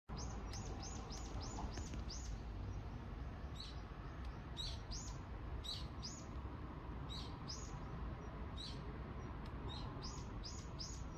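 A small bird chirping: short notes falling in pitch, a quick run of about four a second at first, then in looser groups, over a steady low background rumble.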